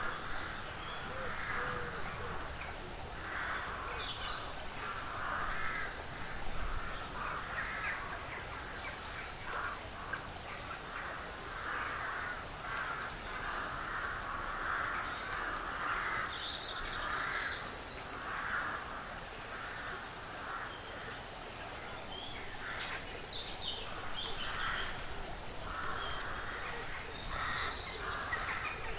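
Woodland birds calling: short high chirps over a steady run of rough, noisy calls, caw-like.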